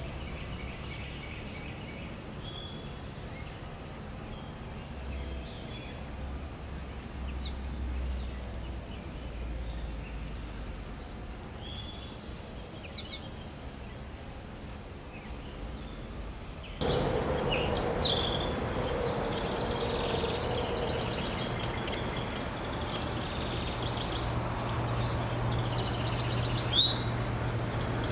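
Outdoor ambience: a steady high-pitched insect drone with scattered short bird chirps and calls. About 17 seconds in, the background noise abruptly gets louder, and a low hum comes in; the bird chirps continue, two of them sharper and louder.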